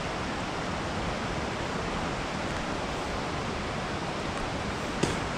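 Steady rush of flowing creek water, running high, with one light click near the end.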